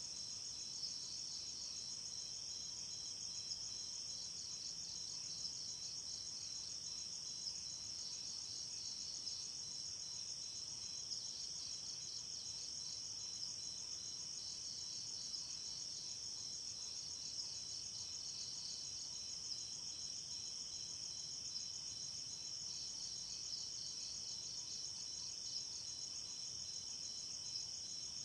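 Night chorus of crickets and other insects chirping without a break, high-pitched, with a pulsing trill that fades in and out.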